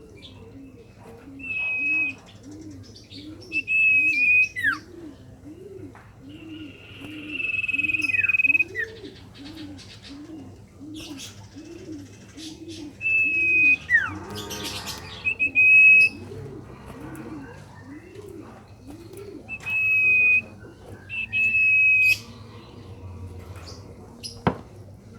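Common iora (sirtu, cipoh) giving long whistles every few seconds. Each is held on one high pitch, and several end in a sharp downward slide. Under them runs a steady string of low cooing notes, a little over one a second.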